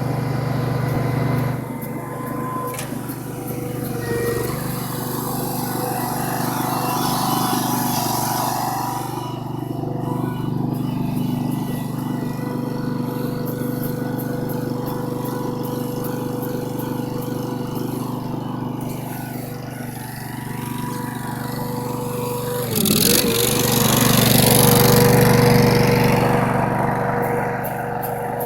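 A small engine running steadily, with a held whine. About 23 s in its pitch dips briefly and it grows louder for a few seconds.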